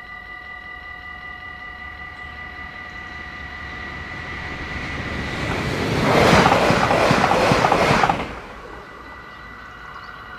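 Dutch level-crossing warning bell ringing steadily while an NS electric commuter train passes over the crossing. The train's rush builds from about four seconds in, is loudest for about two seconds, and drops away suddenly near eight seconds, leaving the bell alone.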